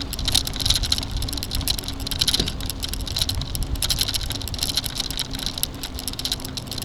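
Steady rumble of a bicycle being ridden, with wind buffeting the microphone and a crackle of rattling and ticking that swells and fades about once a second.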